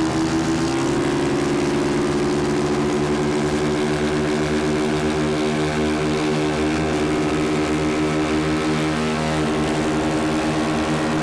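Small single-cylinder four-stroke pit bike engine held at steady high revs at full throttle during a short drag race. The pitch steps up slightly about a second in, then holds level.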